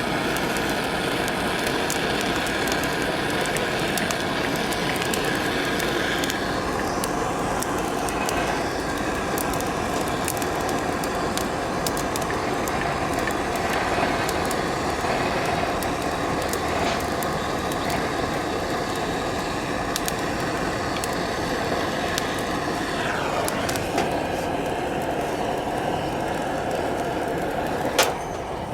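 Cooking over a campfire: a steady sizzling hiss with many small crackles and pops throughout, and one sharper click near the end.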